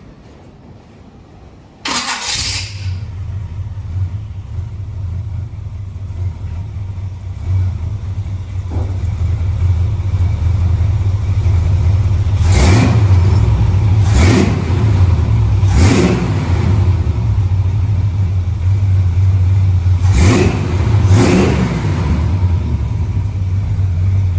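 Square-body pickup's V8 engine cranking and catching about two seconds in, then running at a steady idle that grows louder, with several quick blips of the throttle in the second half. The engine still has a small misfire after new plugs and wires.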